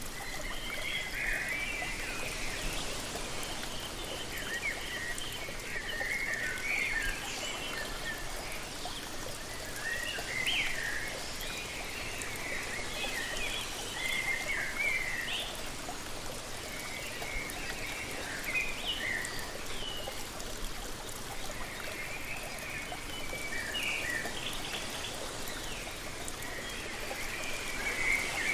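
Steady rush of falling water from a waterfall, with small birds chirping and twittering in short clusters of notes that come every few seconds.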